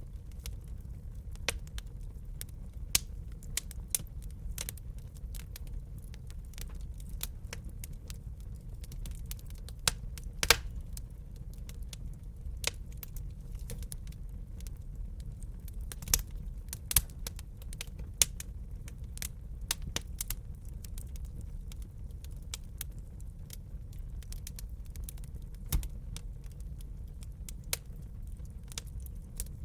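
Wood fire crackling in a fireplace: a steady low rumble of burning with irregular sharp crackles and snaps, and a few louder pops spaced several seconds apart.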